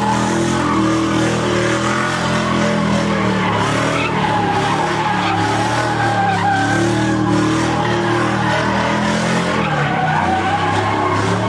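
Car engine held at high revs with the tyres squealing steadily through a burnout or drift.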